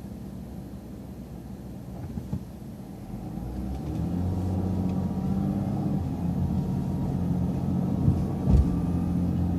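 Bus engine heard from inside the cabin, running low, then growing louder about three to four seconds in as the bus pulls away, and running steadily after that. Two sharp knocks near the end.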